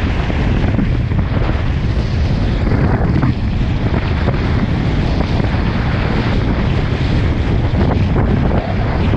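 Strong wind buffeting the microphone in a steady loud roar, with water rushing past the hulls of a Hobie 16 catamaran sailing fast in about 20 knots of wind.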